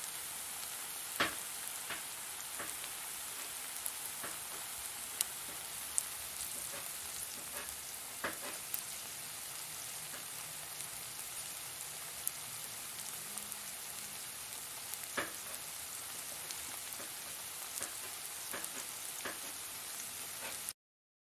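Fire burning, a steady hiss with scattered sharp crackles and pops. It cuts off suddenly near the end.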